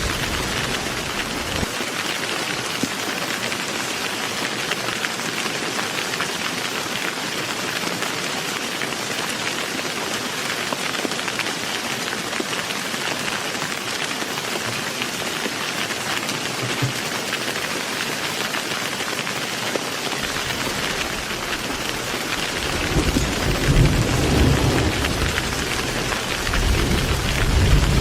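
Heavy rain falling steadily, with a low rumble of thunder that builds over the last few seconds.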